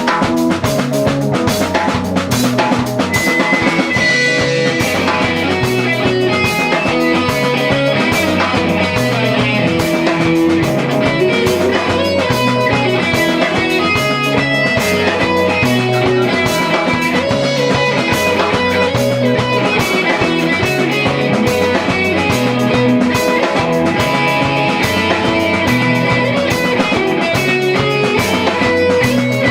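Amateur rock band playing live, drum kit and electric guitars with bass over a steady beat, loud and continuous, without singing.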